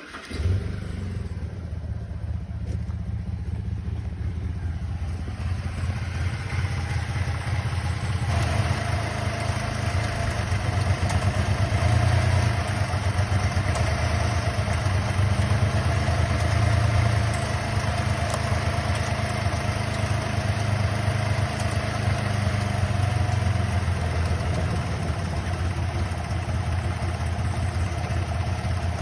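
Holden VZ Calais's 3.6-litre LY7 V6 starting and settling into a steady idle, with a higher hum joining about eight seconds in. The idle is rough, with a suspected misfire.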